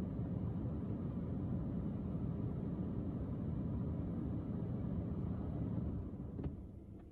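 Small battery-powered car air purifier's fan running with a steady low whir, then dying away about six seconds in, followed by a couple of light clicks. Its weak running is taken as a sign that the battery is low and needs more charge.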